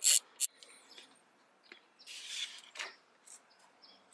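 One last stroke of a socket ratchet clicking at the start, then small metallic clicks and a short scrape about two seconds in, as a 10 mm bolt and a cover are worked loose.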